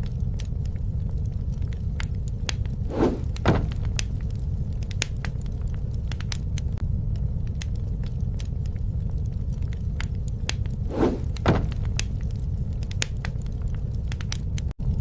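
Wood bonfire crackling: irregular sharp pops and snaps over a steady low rumble of the flames, with two pairs of louder short bursts.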